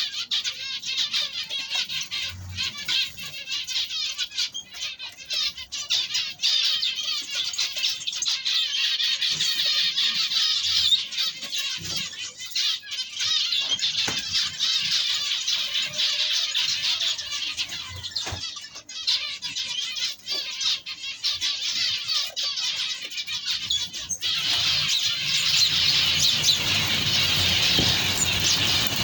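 Many small ornamental birds chattering and chirping at once in an aviary, a dense continuous high-pitched din with short clicks; a low rumble joins it near the end.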